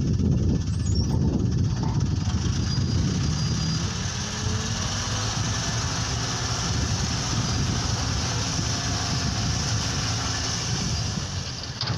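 Toyota Dyna dump truck engine running steadily.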